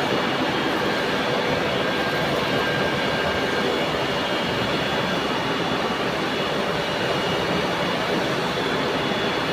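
Steady running noise of machine-shop machinery, such as a CNC lathe, an even rushing sound with a few faint steady high whines through it.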